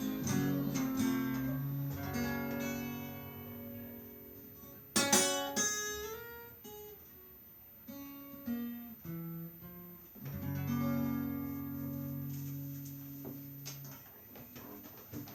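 Guitar playing the closing bars of a song after the last sung line. Held chords ring out, a sharp strum comes about five seconds in, then a few single notes, and a final chord about ten seconds in fades away near the end.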